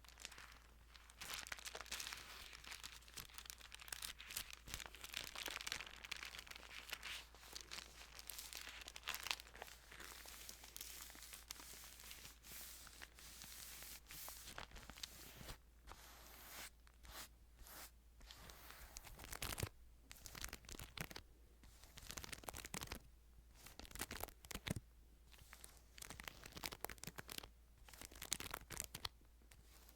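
Thin Bible pages being handled and turned, a run of soft, irregular paper rustles and crinkles.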